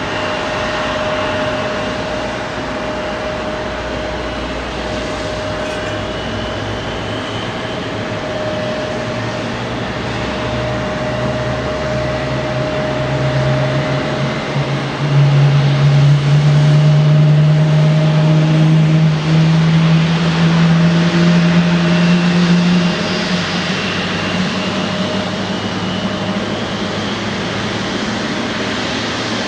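Jet airliner engines running, a steady whine and hum that gets louder and climbs slightly in pitch for several seconds in the middle, then eases back.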